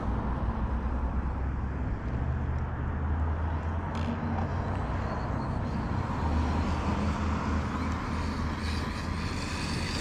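A Redcat Shredder 1/6-scale electric RC monster truck running at a distance under a steady low rumble, with a single sharp click about four seconds in.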